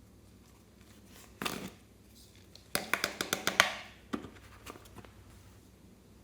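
Slime being pressed and stretched by hand: a short squish about a second and a half in, then a quick run of sharp sticky popping clicks around three seconds, with a few more scattered pops after.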